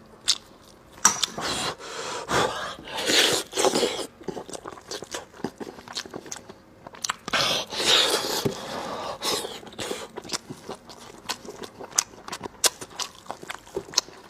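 Close-miked chewing of braised pork: many sharp mouth clicks and smacks, with two longer, louder stretches of eating noise about two to four seconds in and again around eight seconds.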